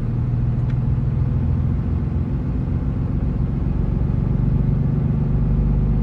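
Truck engine idling, a steady low hum heard from inside the cab.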